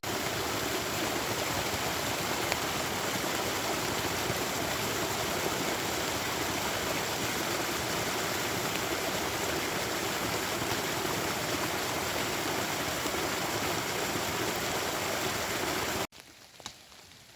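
Rainwater running in a fast, full stream with a steady rushing sound. It cuts off abruptly near the end, leaving a much quieter background with a single faint click.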